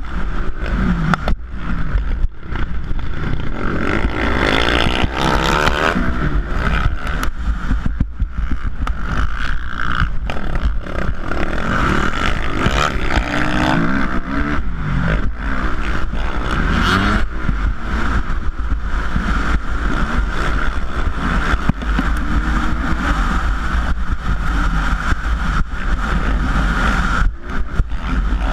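450cc motocross bike engines revving up and down through a race, the pitch repeatedly rising and falling, over a heavy low rumble and constant buffeting.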